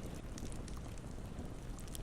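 Campfire burning: a steady low rush from the flames with a few faint, small crackles.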